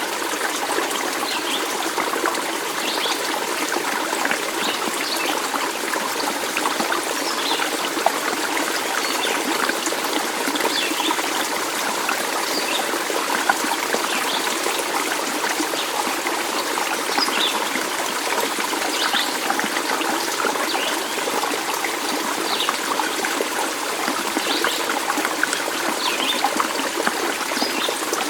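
A stream of water flowing and trickling steadily, with brief high chirps scattered through.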